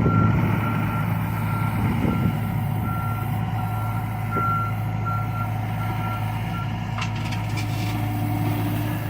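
John Deere excavator's diesel engine running steadily while its travel alarm beeps repeatedly, stopping about seven seconds in. A few metallic clanks follow.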